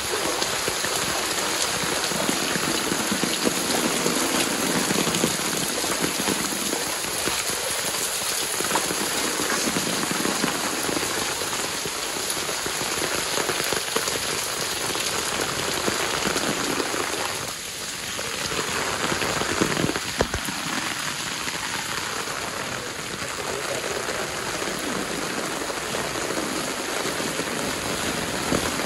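Heavy downpour of rain falling on a paved lane, walls and standing water: a steady, dense hiss of drops splattering, easing briefly a little past halfway.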